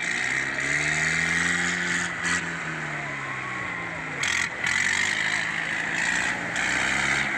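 Tractor diesel engine running, its pitch rising and falling as it revs up and eases back, then rising again near the end, over a steady hiss.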